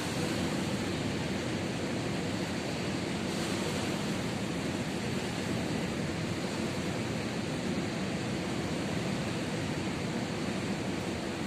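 Ocean surf: a steady wash of waves with no breaks.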